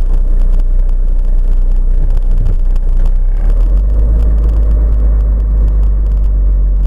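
Steady low rumble of a car's engine and tyres heard from inside a moving car on a dashcam recording. The deepest part of the rumble grows stronger about halfway through.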